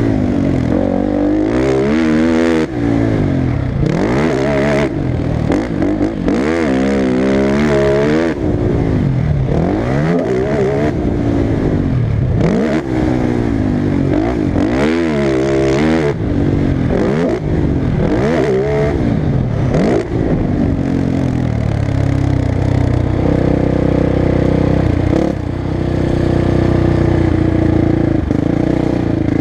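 Motocross bike engine revving up and down over and over as it is ridden, its pitch climbing and dropping every second or two. Toward the end it holds a steadier note.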